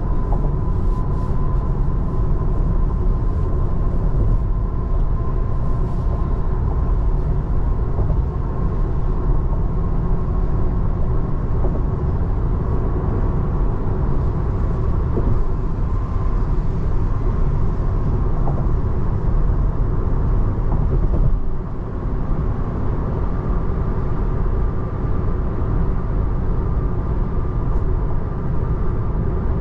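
Steady road noise inside the cabin of a 2024 Tesla Model 3 driving on wet roads in the rain: a constant low rumble with tyre hiss, and no engine sound.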